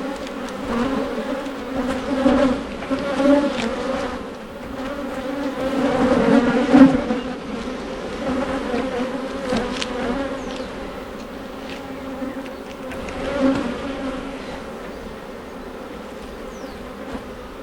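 Honey bees buzzing around an open hive: a steady hum of many bees that swells louder around the middle.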